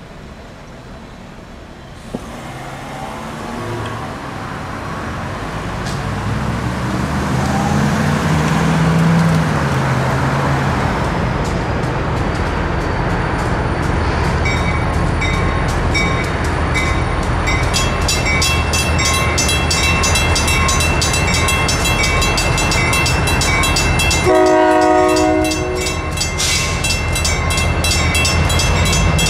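Freight train with diesel locomotive approaching and passing a road crossing; its rumble grows louder over the first several seconds and then holds steady. From about halfway a rapid high ringing with steady high tones joins in, and a short horn blast sounds near the end.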